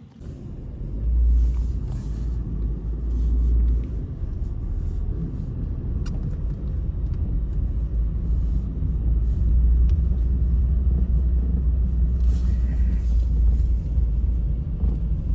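Heavy low rumble of strong blizzard wind buffeting the microphone, gusting louder about a second in and again near four seconds.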